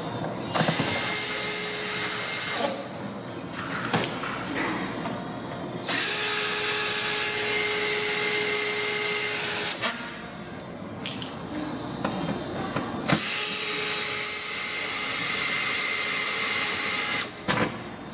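Power drill backing out the front-panel screws of a laundromat stack dryer, in three runs of two to four seconds each, its whine rising as the motor spins up at the start of each run. Short clicks and taps of handling fall in the gaps between runs.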